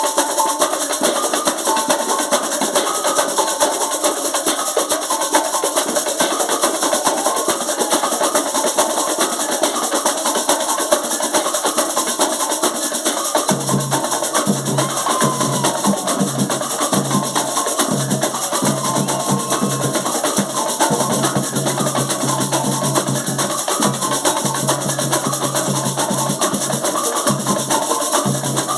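Live band rehearsal playing percussion-led music with dense, rapid strikes and a melody above them. A low bass line comes in about halfway through.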